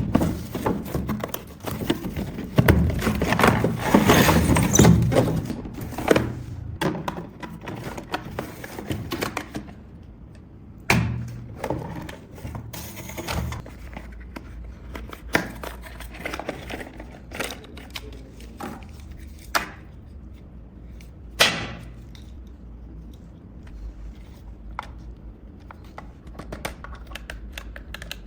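Toy packaging being handled and torn open: dense rustling and tearing for the first ten seconds or so, then scattered clicks and knocks.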